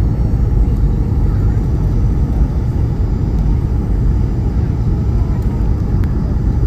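Passenger jet heard from inside the cabin: a loud, steady, low rumble of engines and airflow.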